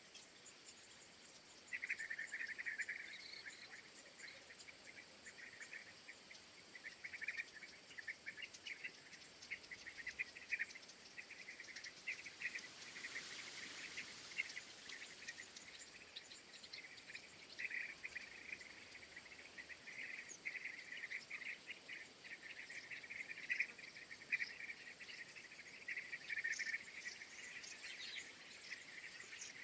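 Insects chirping in repeated short trills, with a soft rush of noise about halfway through.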